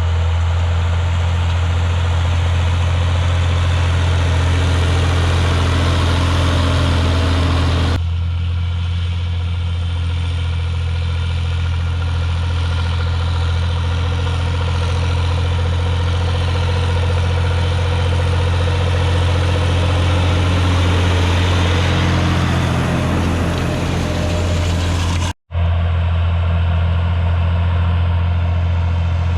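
T-150K tractor's diesel engine running steadily under load while pulling a seeder. The tone changes abruptly about 8 seconds in, and the sound drops out for a split second near the end.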